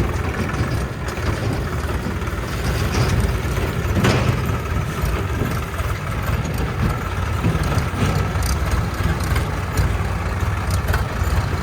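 Heavy diesel engine running steadily, with a sharp knock about four seconds in and a few fainter ones.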